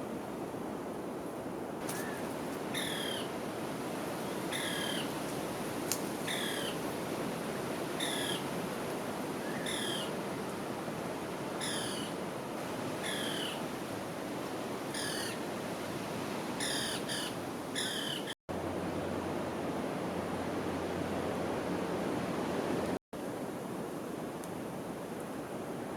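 A bird repeating a short call that slides down in pitch, about once a second, over a steady rushing background noise; the calls stop about two thirds of the way through.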